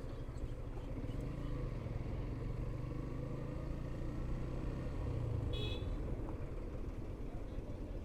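Road noise from a moving motorcycle: low wind rumble and an engine drone that swells and fades near the middle, with one short vehicle horn beep about five and a half seconds in.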